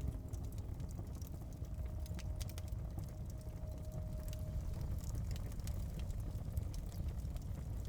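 Wood fire crackling in a fireplace: scattered sharp pops and snaps over a steady low rumble. A faint held music note dies away about halfway through.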